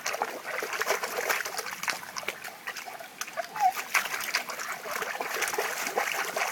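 Cocker spaniel splashing about in shallow water, a quick, irregular patter of splashes and drips.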